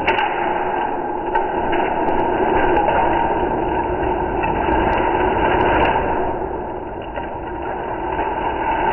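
A child making a long, loud, rumbling monster growl that starts suddenly, with a few light clacks of wooden Kapla planks.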